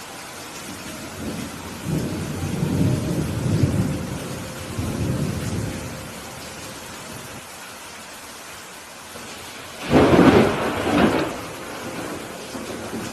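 Steady heavy rain falling in a thunderstorm. Thunder rumbles low for several seconds, then a louder, sharper thunderclap comes near the end and rolls away.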